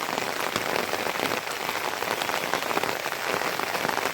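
Steady rain falling, a dense, even patter of many close drop hits.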